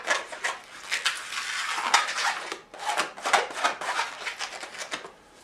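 Inflated latex twisting balloon rubbing and squeaking as it is squeezed and worked by hand, a quick run of short squeaks that dies away near the end.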